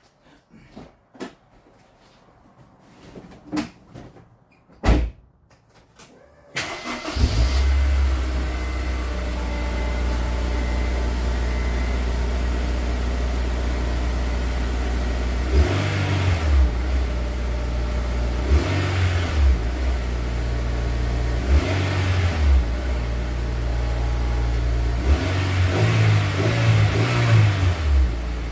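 A few clicks and knocks, then a Honda S2000's inline-four engine on its stock exhaust starts about six seconds in and idles. It is revved briefly three times a few seconds apart, then blipped several times in quick succession near the end.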